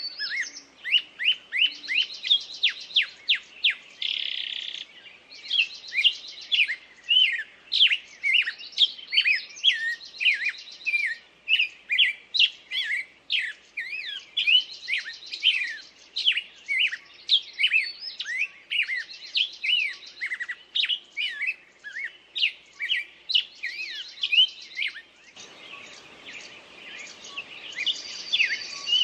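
Songbirds chirping in a dense run of short, quick, downward-sliding chirps, several a second, broken every couple of seconds by buzzy trills. A faint low rushing background comes in near the end.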